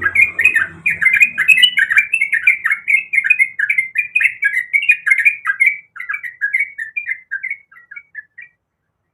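Yellow-vented bulbul (trucuk) singing a fast, chattering run of short bubbly notes. It thins out and fades in the last few seconds.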